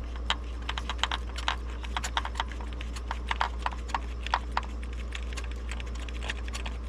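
Hand ratchet on a spark plug socket clicking in quick, irregular runs as a spark plug is worked out of the Honda K24 engine, over a steady low hum.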